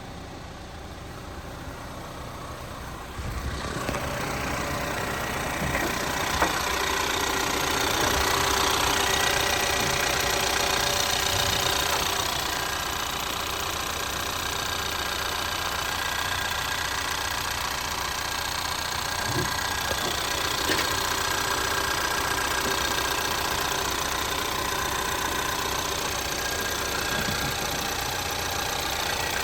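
Ford Maverick's 2.0L turbocharged four-cylinder EcoBoost engine running at idle. The sound grows louder about three seconds in and is loudest for a few seconds before settling to a steady idle.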